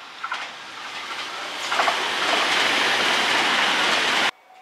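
JR West 521 series electric train passing close by: rolling noise of its wheels on the rails that builds over the first two seconds, with a few sharp clacks. The noise stays loud, then cuts off abruptly near the end.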